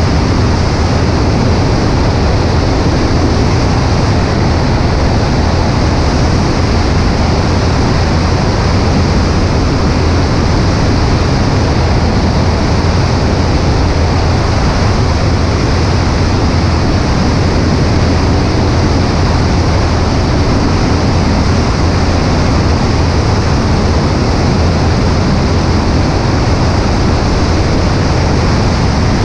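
Cessna 140A in flight: a steady engine and propeller drone mixed with wind rushing over a wing-mounted microphone.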